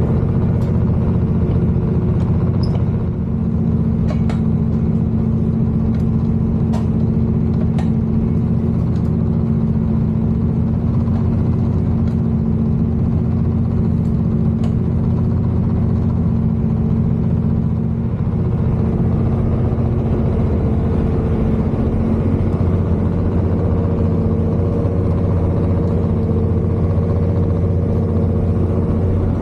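Class 221 Super Voyager diesel-electric train running at speed, heard from inside the passenger cabin: a steady low rumble with the hum of its underfloor diesel engines, and a few brief sharp clicks.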